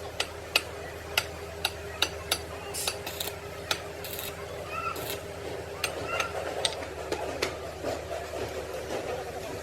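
Irregular sharp knocks of a hand tool striking metal, about a dozen, mostly in the first half, with a few short hissing scrapes between them. A steady workshop machine hum runs underneath.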